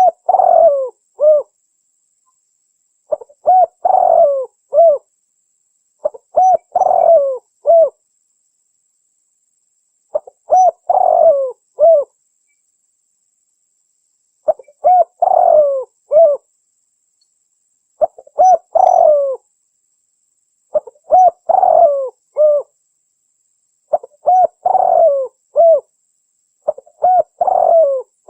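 Spotted dove (tekukur) cooing call: a phrase of four or five coos about two seconds long, repeated about every three to four seconds with dead silence between, a calling track used to lure doves.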